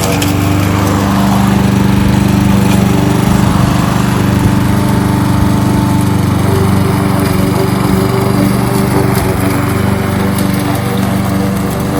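Kohler XT-675 single-cylinder engine on a push lawn mower running steadily.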